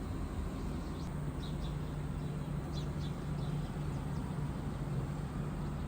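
Small birds chirping in a few short quick groups over a steady low hum.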